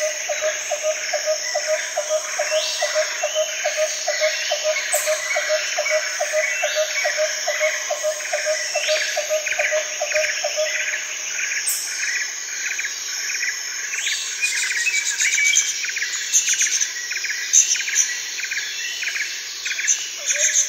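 Night-time ambience of insects chirping and trilling steadily, with a low note pulsing about three times a second for the first ten seconds or so. Bird chirps join in during the last few seconds.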